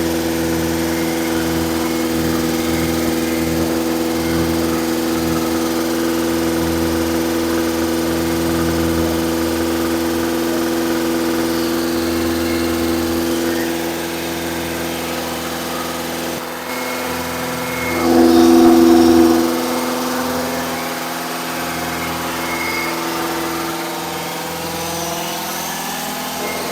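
Freshly rebuilt engine running at a steady speed during its camshaft break-in run. It swells briefly louder about two-thirds of the way in, and its pitch starts to climb near the end.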